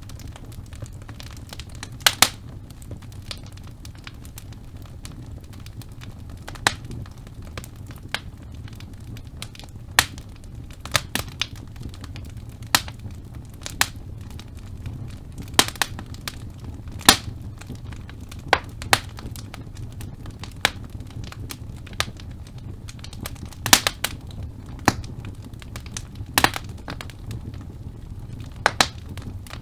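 Wood fire burning in a fireplace: a steady low rumble of flame with sharp, irregular crackles and pops from the logs, one every second or two.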